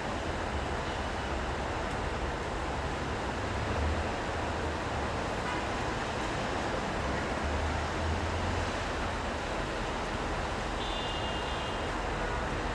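City street traffic in the rain: a steady hiss of rain and tyres on wet road, with the low rumble of vehicles passing twice, a few seconds apart. A brief high tone sounds near the end.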